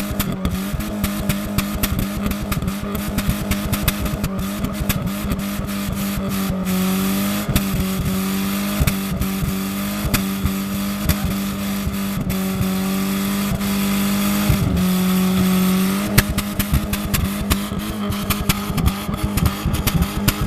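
Exhaust of a Mk2 car's 1.8 ABS engine, held at a steady raised engine speed with a strong even note, with sharp crackles and pops from the exhaust throughout, coming thicker near the end.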